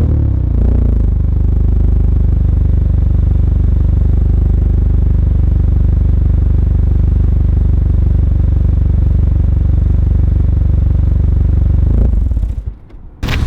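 Honda Accord 2.0T's turbocharged four-cylinder idling steadily through a Rev9 cat-back exhaust and PRL front pipe, a deep, even exhaust drone. It stops about twelve and a half seconds in, and a louder engine sound starts right at the end.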